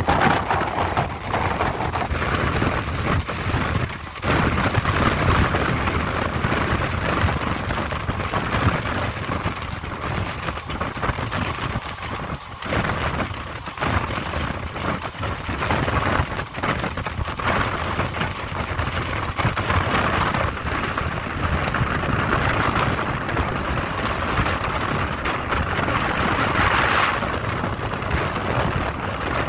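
Passenger train running at speed, heard from the open coach: a steady rush of wheel and rail noise with wind buffeting the microphone.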